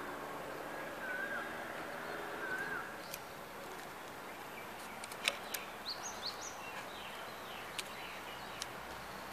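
Outdoor ambience with a bird repeating a short, wavering whistled call three times, about a second and a half apart, in the first three seconds. After that come a few faint high chirps and scattered sharp ticks.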